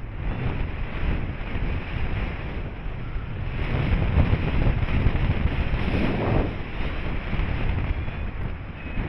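Wind rushing and buffeting over the microphone of a paraglider in flight, a rough, unpitched noise that swells about four to six seconds in.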